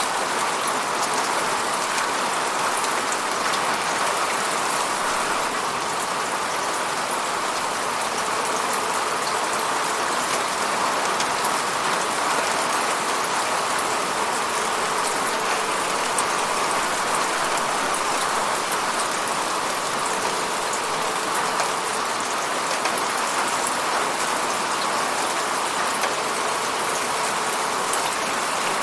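Steady falling rain, an even hiss of drops with fine pattering, no thunder.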